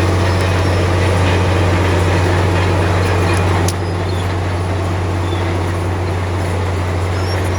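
Komatsu D53P bulldozer's diesel engine running with a steady low drone. A sharp click comes about three and a half seconds in, after which the sound is slightly quieter.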